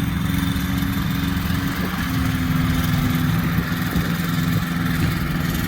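Ultralight aircraft engine and propeller running steadily at idle, a continuous low hum with a slight shift in pitch about two seconds in.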